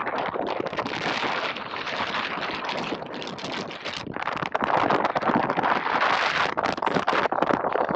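Strong wind buffeting the camera microphone while wingfoiling, with rushing and splashing water. It eases briefly about three to four seconds in, then builds again.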